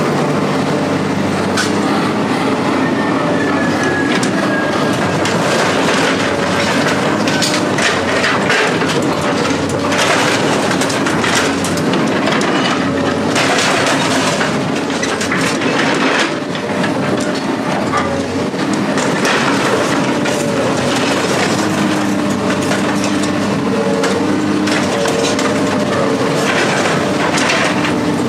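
A heavy machine's engine running steadily, its pitch shifting now and then, under repeated clanking and scraping of metal.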